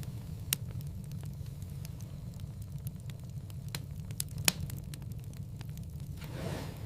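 Wood fire crackling in a fireplace: a steady low rumble with scattered sharp pops and small ticks, the loudest pop about four and a half seconds in, and a soft swell of hiss near the end.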